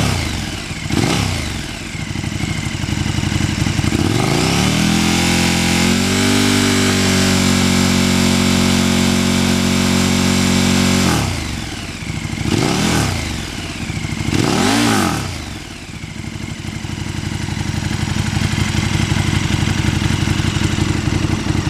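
De-catted 2017 KTM 1290 Super Duke GT V-twin with a Bodis cat-replacement mid pipe and Bos exhaust, being revved. Two quick throttle blips come first, then a rev held high for about seven seconds, two more blips, and it settles back to a steady idle.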